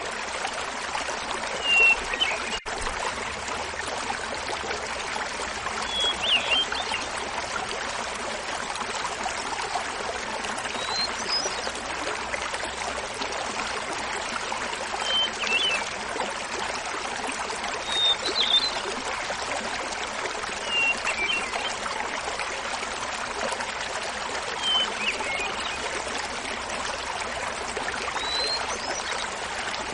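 A small waterfall's steady rushing splash, with a hermit thrush singing over it: short flute-like phrases repeated every few seconds, each pitched a little differently.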